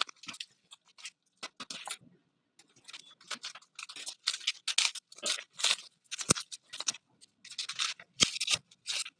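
A buffing kit's package being opened by hand: irregular crinkling, scratching and tearing of the packaging, with a few sharp clicks in the second half.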